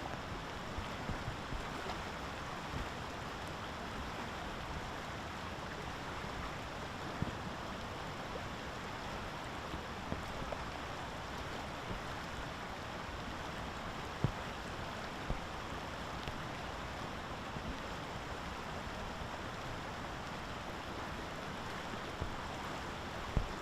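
Steady wash of outdoor water noise, with a few faint ticks scattered through.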